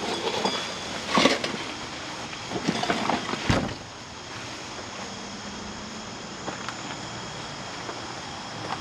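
Rustling and clattering of things being handled and shifted, with a sharp knock about three and a half seconds in, then a faint steady hum.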